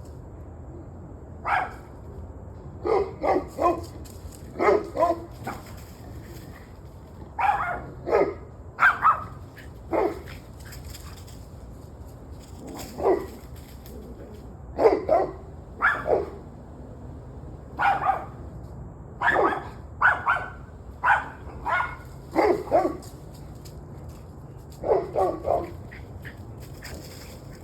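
A dog barking repeatedly in short groups of one to four barks with pauses of a second or two between groups, over a steady low hum.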